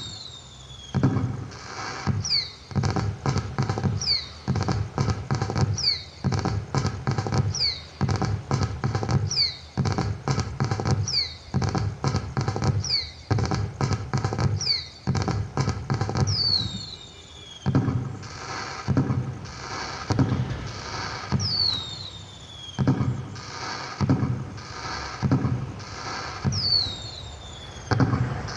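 Firework sound effects played with an LED pixel-light firecracker display: a quick run of bangs and crackle, with a falling whistle like a rocket going up every couple of seconds.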